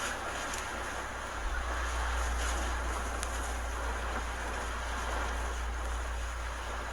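Hurricane wind blowing steadily, with a deep rumble of wind buffeting the microphone that grows stronger about a second and a half in.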